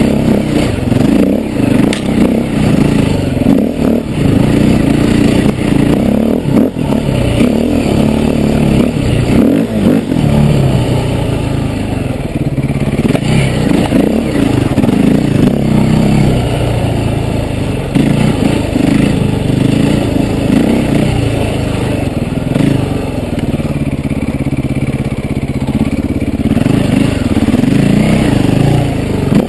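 KTM enduro motorcycle engine being ridden hard, its revs rising and falling continuously as the throttle is worked.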